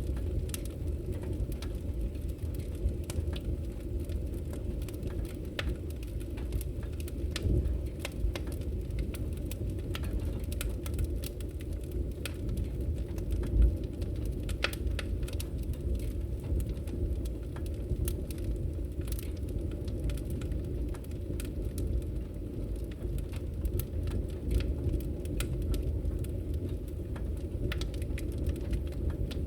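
Wood fire burning in a fireplace: a steady low rumble with scattered crackles and pops, one louder pop about halfway through.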